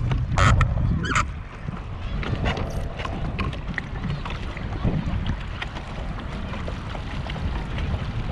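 Wind buffeting the microphone on a pedal kayak, heaviest in the first second or so, with two sharp splash-like bursts near the start and then scattered small clicks and water ticks.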